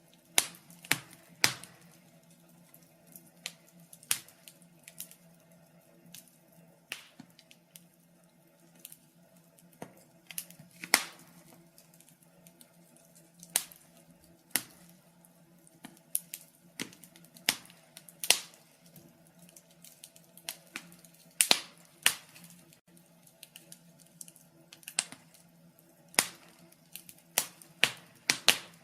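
Wood fire crackling: irregular sharp pops and snaps, sometimes several close together, sometimes a second or more apart, over a faint steady low hum.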